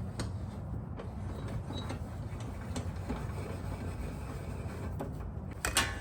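Steady low rumble with scattered light metallic clicks and a sharper clatter near the end, from the Atlas table saw's blade-raising mechanism being worked by hand; the mechanism sticks as the blade comes up.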